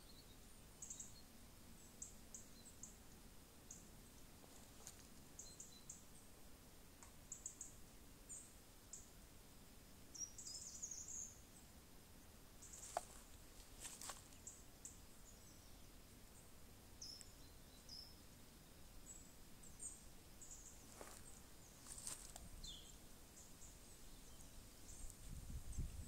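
Near-silent woodland ambience: faint, high bird chirps scattered throughout, with a few soft clicks about halfway through and again near the end.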